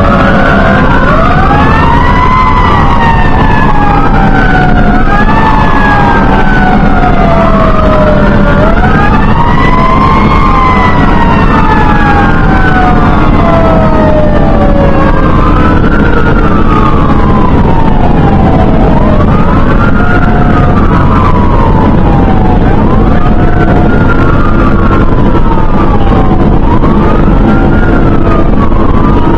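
Fire engine siren wailing, rising and falling every few seconds over the steady drone of the truck's engine. Two wails overlap through the first half, then one carries on alone.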